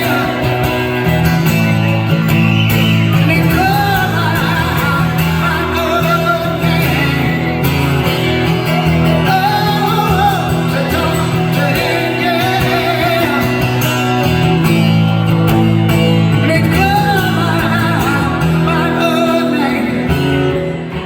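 Rock band playing live, with guitar and bass continuing between sung lines of the song.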